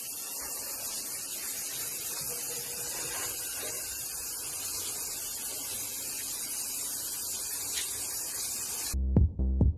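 A steady high hiss that cuts off suddenly about nine seconds in, when electronic music with a steady beat starts.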